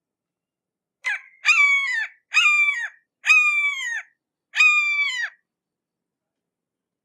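Hawk calling: a short note, then four drawn-out, shrill cries in a row, each holding its pitch and dropping off at the end.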